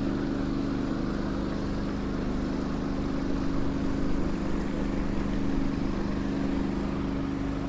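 An engine running steadily, a constant drone, over a broad, even rushing noise.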